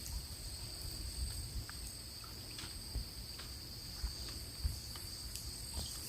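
Insects singing in one steady, high-pitched unbroken tone, over a low rumble and a few faint scattered clicks.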